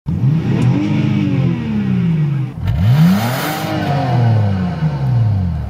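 Car engine revved twice, its pitch climbing quickly and then dying away slowly each time.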